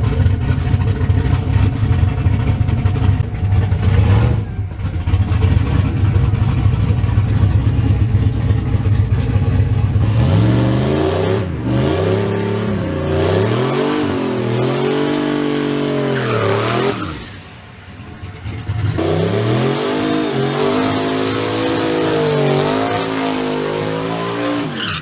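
Turbocharged drag-racing truck engine, first a heavy low rumble, then revving up and dropping back several times, with a short lull part-way through.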